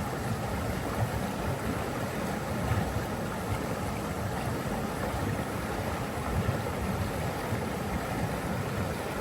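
Rushing water running steadily, a constant deep rush.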